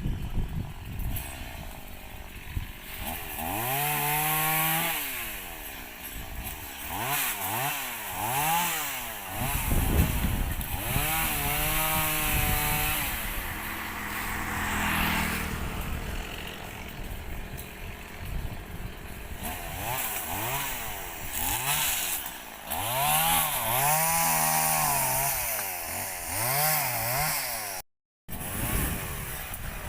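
Chainsaw revving in repeated surges, engine pitch rising and falling over and over, with rougher, noisier stretches between. It cuts out briefly near the end.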